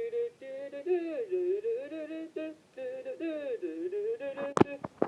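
A voice humming a wordless tune in held notes that slide up and down, and near the end a few sharp clicks.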